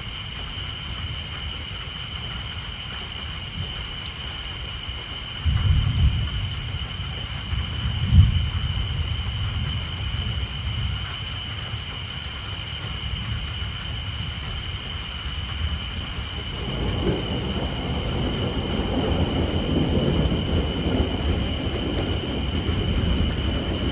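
Thunder rumbling low and steady, with two sharper cracks about five and eight seconds in, over rain on a tin roof that grows louder in the last several seconds. A constant high-pitched chorus of tree frogs runs underneath.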